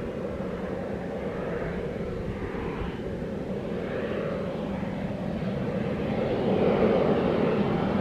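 Airplane engine noise that grows louder over the last few seconds as the aircraft comes nearer.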